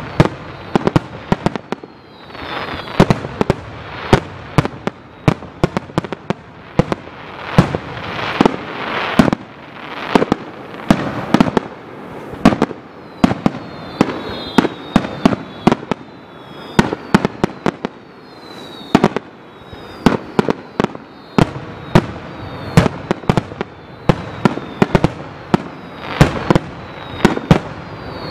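Fireworks display: a rapid barrage of aerial shells bursting, dozens of sharp bangs in quick, irregular succession over a crackling hiss. Short, high, falling whistles come between the bangs, mostly in the second half.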